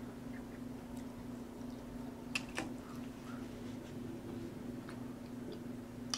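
Quiet mouth sounds while chewing, with two sharp mouth clicks about two and a half seconds in. A steady low electrical hum runs underneath.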